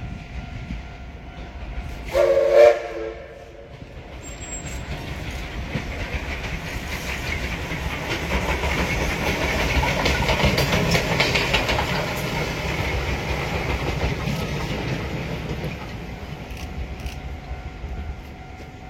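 A train sounds its horn once, briefly, about two seconds in, then passes, its wheels clicking over the rail joints as the rumble swells to a peak midway and fades away near the end.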